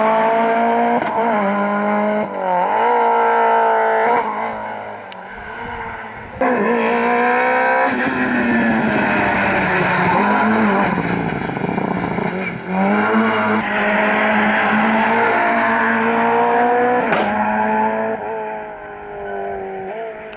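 Rally cars driven flat out, engines revving hard, pitch climbing through the gears and dropping on lifts and downshifts, several times over. About six seconds in the sound jumps abruptly louder as another car takes over.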